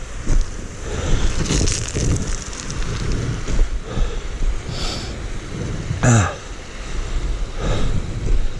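Wind buffeting the microphone over the low rumble of a single-cylinder dual-sport motorcycle engine. About six seconds in there is a short sound that falls steeply in pitch.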